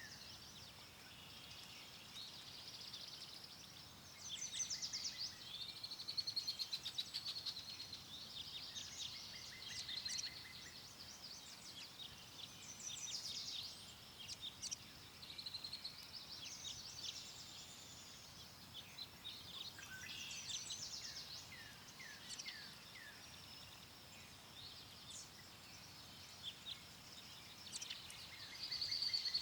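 Several songbirds singing at once: overlapping rapid trills and short chirps, with a few downward-sliding notes around the middle, over a faint background hiss.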